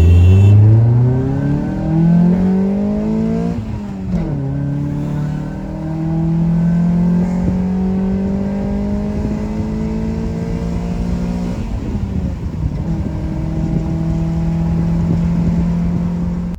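Honda Prelude's four-cylinder engine accelerating through the gears: the revs climb quickly, drop at an upshift, climb more slowly for several seconds, drop at another shift, then hold steady.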